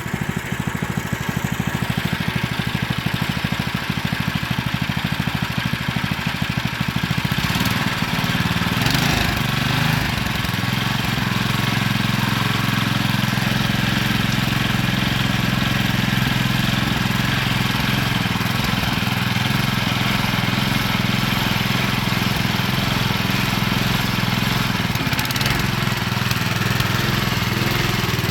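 A small engine running steadily, its tone shifting and settling a little lower about nine seconds in.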